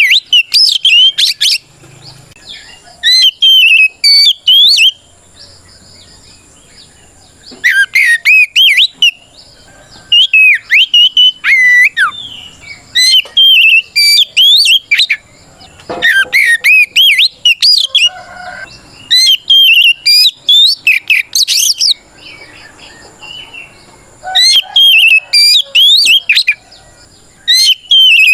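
Oriental magpie-robin (kacer) singing a loud 'ngeplong' challenge song, the kind used to call out a rival male. It comes in bursts of rapid, sharply gliding whistled notes, each burst a second or two long, repeated about every three seconds with short pauses between.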